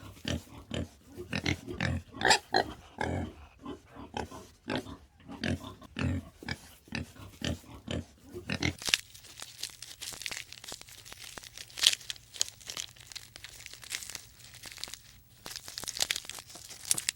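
Pig grunting in quick short grunts, several a second. About nine seconds in the grunting stops and gives way to crackling, crunching noises over a low steady hum.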